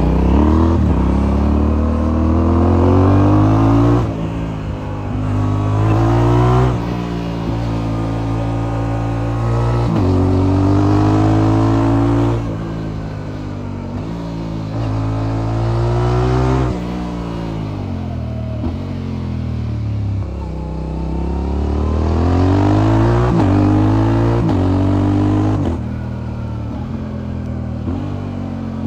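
Motorcycle engine through an aftermarket exhaust, accelerating hard through the gears: the pitch climbs, then drops sharply at each upshift, five or six times. About two-thirds through it slows with a falling pitch before pulling through the gears again.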